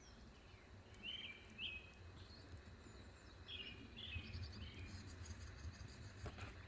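Birds calling faintly in short repeated chirps, several phrases a second or so apart, over a steady low rumble.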